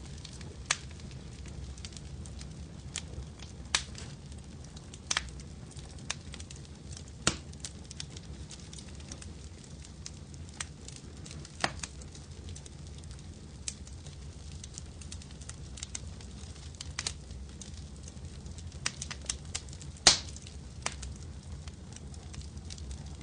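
Wood fire crackling in a fireplace: a steady low rumble of flames with scattered sharp pops and snaps, the loudest about twenty seconds in.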